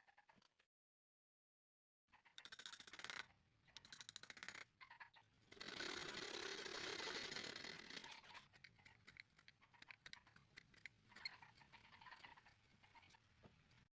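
Faint woodworking hand-tool sounds on wood: scattered small clicks and scraping, with a steadier rasping stretch of about two and a half seconds in the middle.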